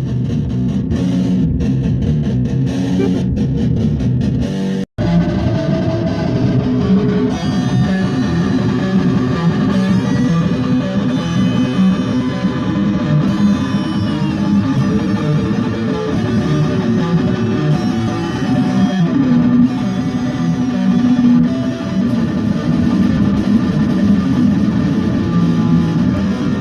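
Band rehearsing rock music led by electric guitar, with bass guitar underneath and sustained guitar notes. The sound drops out for an instant about five seconds in.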